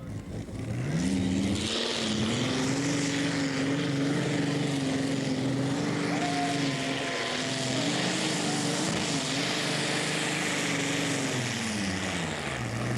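Pulling tractor's Rolls-Royce engine, revving up about a second in and held at high revs through a pull down the track, wavering slightly, then dropping back to idle near the end.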